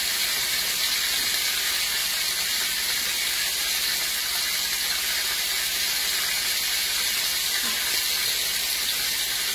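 Floured cube steak frying in a skillet of hot vegetable oil, a steady sizzle.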